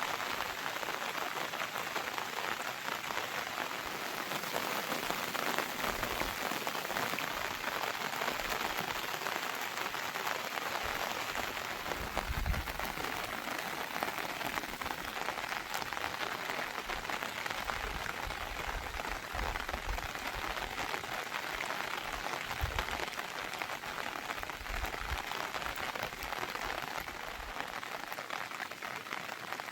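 Heavy monsoon rain falling steadily, a dense even hiss of rain on surfaces, with a few brief low rumbles along the way.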